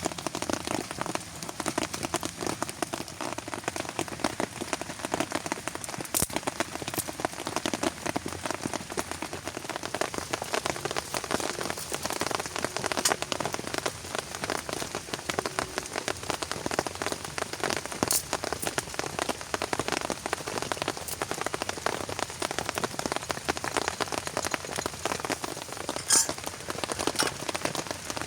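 Steady rain, countless drops hitting a surface at once, with a handful of sharper single drop impacts standing out now and then.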